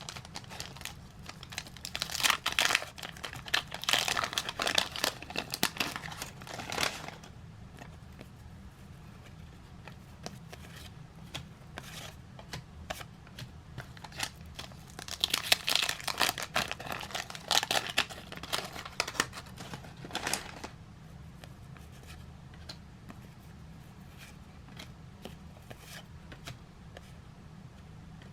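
Paper trading-card pack wrappers being torn open and crinkled, in two spells of rustling and tearing, one starting about two seconds in and one about fifteen seconds in, with light handling ticks between.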